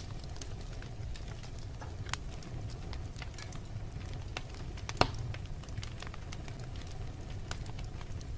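Wood fire burning in a fireplace: a steady low rumble of flame with scattered small crackles, and one loud sharp pop about five seconds in.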